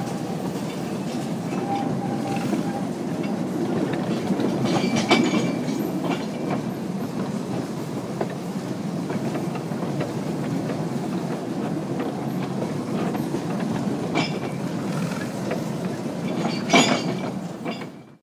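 Riding on a 2 ft narrow-gauge train of wagons hauled by a small diesel locomotive: a steady rumble of the running train, with sharp metallic clanks from the wheels on the rail joints about five seconds in, again around fourteen seconds and loudest near the end.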